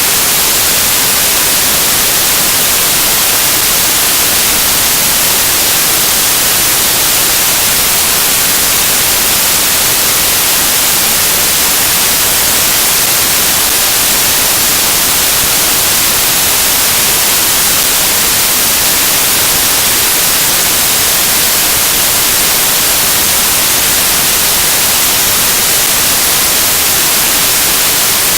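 Loud, steady static hiss like white noise, brightest in the high end and unchanging throughout, with no speech. It stands in place of the interview's sound, the mark of an audio dropout or fault in the recording.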